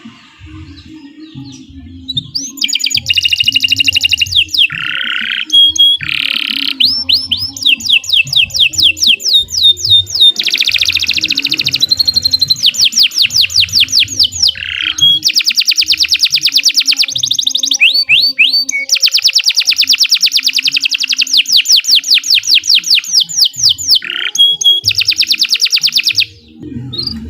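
Domestic canary singing a long, loud song. It starts a couple of seconds in and is built of rapid trills of repeated notes, several a second, broken by a few sweeping glides, and it breaks off shortly before the end.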